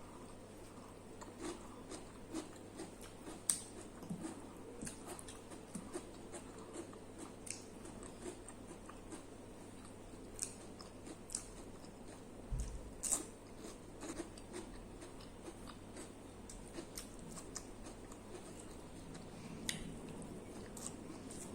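Close-miked eating: chewing and biting with many small, irregular crunches and clicks, and a soft low thump about halfway through.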